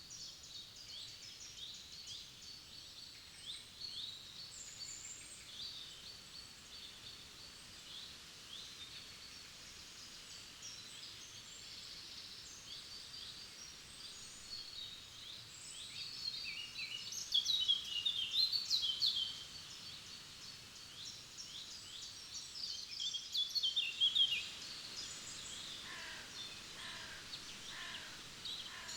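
Forest songbirds singing: a dense chorus of high chirps and trills, louder for a few seconds in the middle and again a little before the end. Near the end a lower call repeats about five times.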